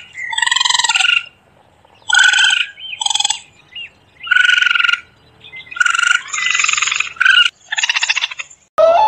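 Frogs calling: a series of short, loud, pulsed croaks, about seven in nine seconds with quiet gaps between them. Just before the end the sound cuts abruptly to a different sound.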